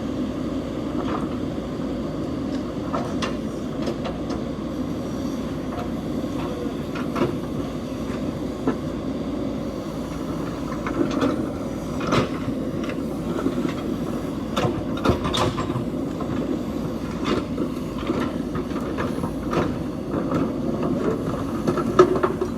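JCB 3DX backhoe loader's diesel engine running steadily while it works, with irregular clanks and knocks every second or two as it moves stones.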